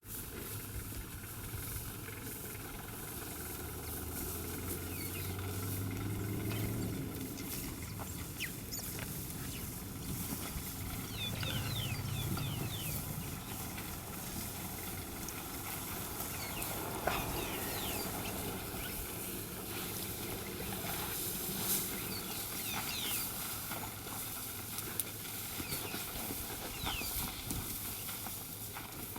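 Open-air ambience: a steady background hiss with many short, high chirps throughout, and a low hum that comes in twice, about four and about eleven seconds in.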